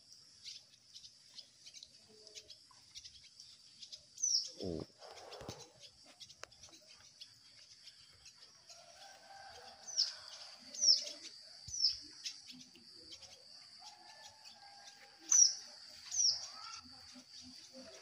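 A bird repeatedly gives sharp, high chirps that drop quickly in pitch, about six of them, clustered around ten to twelve and fifteen to sixteen seconds in. Under them runs a steady high drone.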